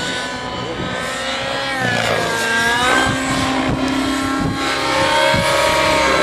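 Nitro-powered Synergy N9 RC helicopter in flight, its glow engine and rotors running with a buzzing, pitched drone. The pitch glides down around two to three seconds in, then holds steady and a bit louder.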